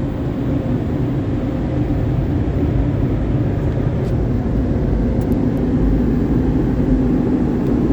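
Car wash tunnel dryer blowers running, a loud, steady rush of air with a low hum.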